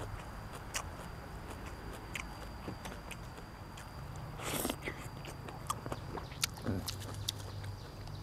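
A person chewing and biting food close to the microphone, with scattered small clicks and a brief louder smacking noise about halfway through.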